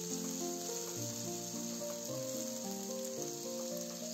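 Diced eggplant, bell pepper and garlic sizzling as they fry in oil in a nonstick pan, stirred with a spatula. Background music with a series of melodic notes plays over it.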